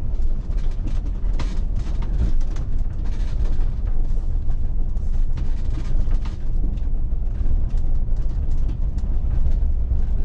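Vehicle driving on a rough dirt road, heard from inside the cab: a steady low engine and road rumble with frequent small knocks and rattles.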